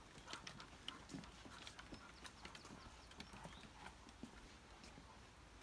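Faint, irregular footsteps ticking on a hard bridge deck.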